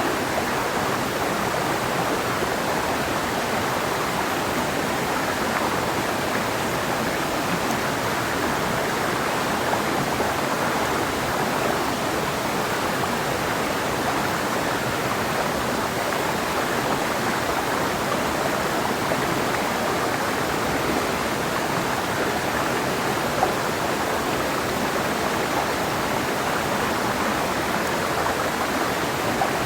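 Clear mountain river flowing steadily over rocks, an even rushing of water.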